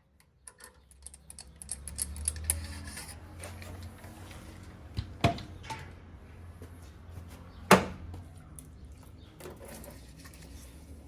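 Workshop noise from engine machining: a low steady hum under scattered light clicks, with two sharp knocks, about five and about eight seconds in.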